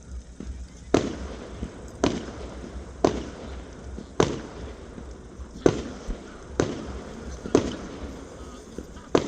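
Fireworks going off: a series of about eight sharp bangs, roughly one a second, each trailing off briefly.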